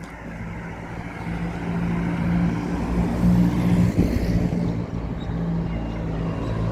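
A motor vehicle's engine running and drawing near, growing steadily louder over the first few seconds and then holding at a steady pitch.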